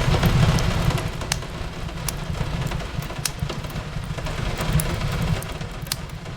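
Fireplace crackling, with sharp pops about once a second over a steady hiss of rain on a window and a low, even rumble.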